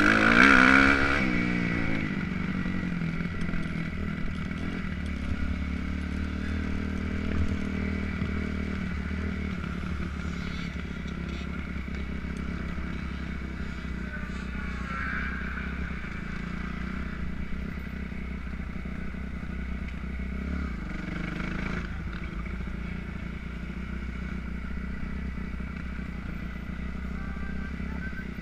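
Motocross bike engine: a loud burst of revs whose pitch drops off in the first second or two, then a steady low running note.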